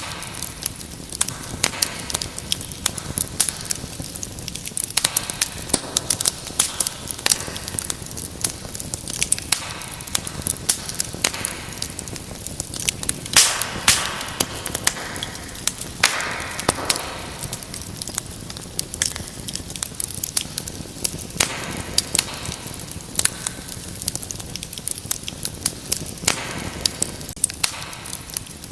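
Wood fire in a fireplace crackling steadily, with frequent sharp pops and snaps over a low hiss of burning, and a louder cluster of pops about halfway through.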